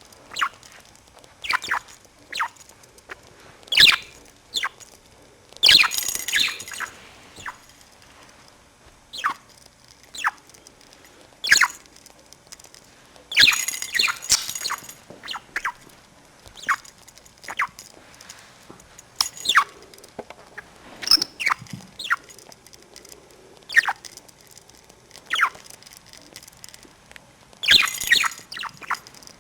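Budgerigar making short, high squeaky chirps that slide down in pitch, about one a second, with a few longer, busier bursts of chatter about six seconds in, around halfway and near the end.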